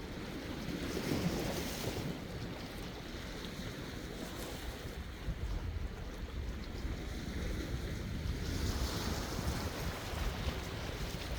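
Sea waves washing in, swelling about a second in and again near the end, with wind rumbling on the microphone.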